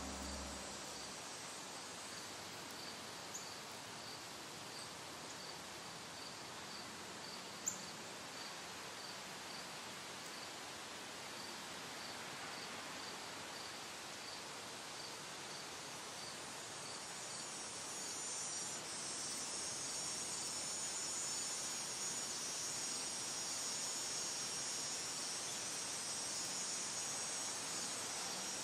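Garden insects: a cricket-like chirp repeating about twice a second at one steady high pitch, over a high insect hiss that grows louder about two-thirds of the way through. A single sharp click comes a little over a quarter of the way in.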